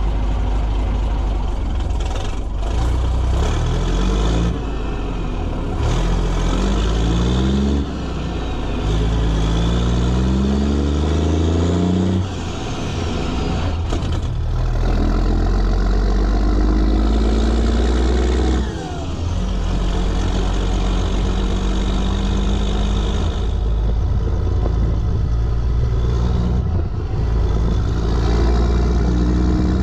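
Straight-piped Rolls-Royce diesel engine of a Sisu M-162 truck pulling under load, its revs climbing and dropping back four times as it shifts up through the gears. It then runs steadily for the last ten seconds or so.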